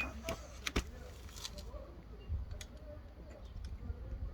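Small tools and metal parts being handled during disassembly: light clicks with one sharper knock about a second in, over a low rumble.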